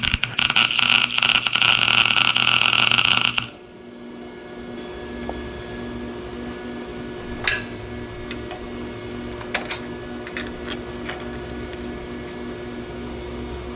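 Electric welder arc crackling loudly as a nut is welded into the rusted-in ball-joint collar, stopping abruptly about three and a half seconds in. After that, a steady electrical hum with a few scattered light clicks.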